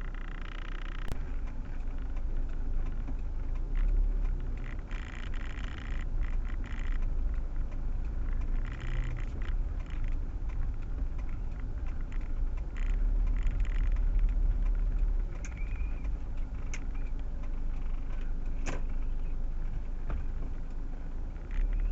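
Proton Waja 1.6 CPS car driving, heard from inside the cabin: a steady low rumble of engine and road, with a few sharp clicks and short hissing bursts now and then.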